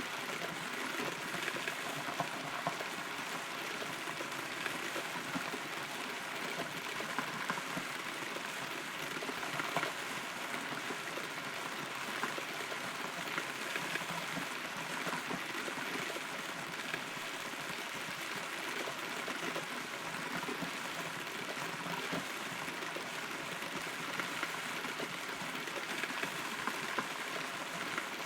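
Steady rain heard from inside a hollow, rotten tree trunk: an even hiss of rainfall with many individual drops ticking on the wood.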